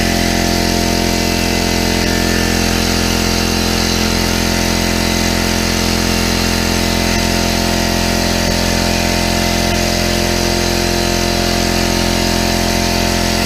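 Central Pneumatic 26-gallon, 1.8 HP oil-less air compressor running steadily under load, its motor and pump filling the tank as pressure nears 100 PSI.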